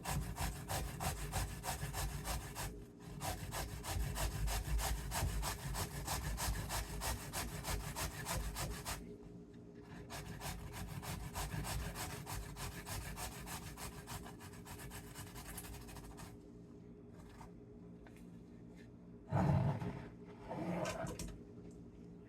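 A turnip being rubbed back and forth on a grater: quick, steady rasping strokes that pause briefly about nine seconds in, then resume and thin out. A short, louder sound comes near the end.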